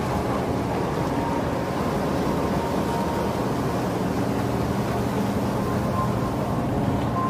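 Steady low drone of a car ferry's engines heard on board, an even hum that neither rises nor falls.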